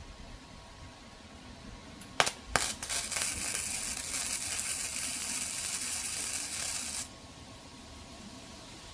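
Arc welder striking an arc with a couple of sharp clicks, then about four seconds of steady crackling hiss as a weld bead is laid on the broken mower handle, cutting off abruptly when the arc is broken.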